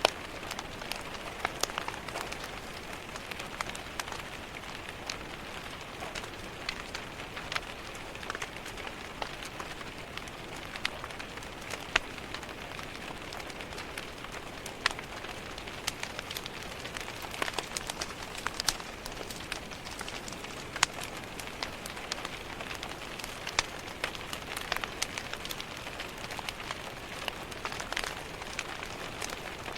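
Steady rain pattering on a window, mixed with irregular sharp pops and crackles from a wood fire in a fireplace.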